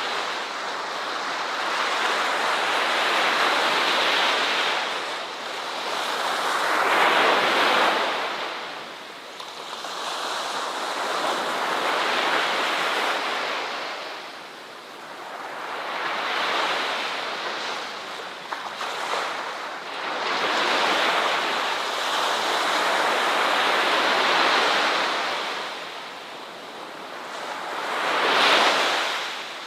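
Ocean surf: waves breaking and washing up the shore, swelling and falling back about every four to five seconds, with the biggest surge near the end.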